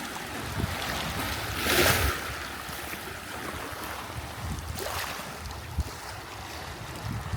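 Sea waves washing onto the shore, swelling twice, loudest about two seconds in and again near five seconds, with wind rumbling on the microphone.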